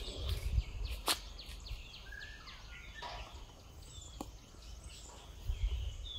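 Wild birds calling: a quick run of short high notes about four a second, then scattered chirps and whistles, over a low rumble with two sharp clicks.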